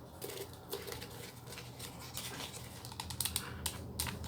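Light scattered clicks and taps of craft materials being handled while hot-gluing: a plastic PET bottle, foam pieces and a glue gun. A quick run of clicks comes a little past three seconds in.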